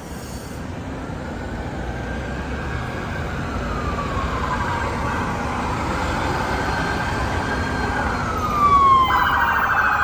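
Emergency vehicle siren wailing in slow rising and falling sweeps, getting louder as it approaches, with a rapid warbling siren tone cutting in near the end. Low traffic rumble underneath.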